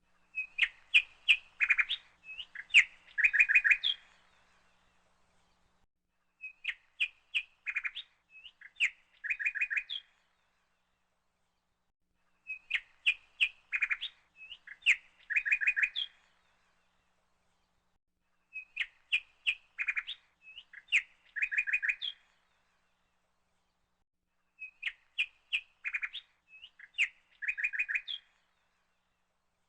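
Small songbird chirping and trilling in the same short phrase, repeated about every six seconds with silence between.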